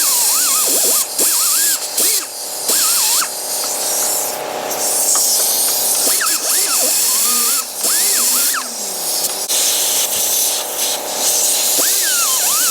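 Small air-powered cleaning grinder running at high speed in bursts with short stops, a steady high-pitched hiss and whine as it polishes the exhaust manifold mounting surface. A person's voice carries a tune over it.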